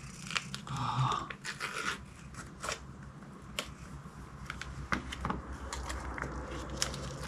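A cat chewing and lapping wet food, an irregular run of short wet clicks and crunches.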